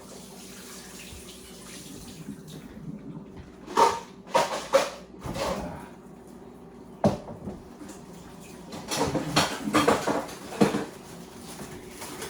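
Dishes and kitchen containers clattering, with clusters of sharp knocks and rattles about four seconds in, once about seven seconds in, and again near the end, over a steady low hum.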